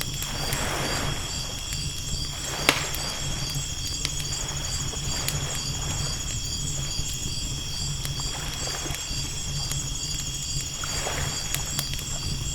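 Mixed ocean-and-campfire ambience. Waves wash in softly, and a crackling fire gives scattered sharp pops, the loudest about 2.7 s in. Over this runs a steady, high, pulsing chirr of night insects and a low constant rumble.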